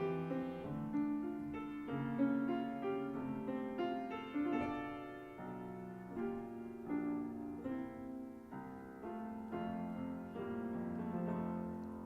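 Slow, gentle piano music of held chords changing about once a second, played during silent prayer, fading out near the end.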